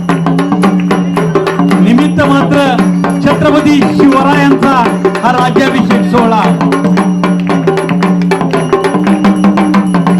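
Sambal, the Maharashtrian stick-played double drum, played in a fast, dense rhythm over a steady held low note and a wavering melody line.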